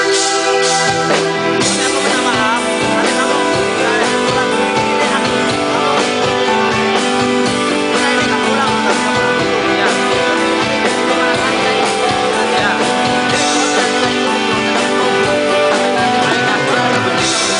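Rock band playing through a song at a soundcheck: electric guitar and drum kit with a steady beat.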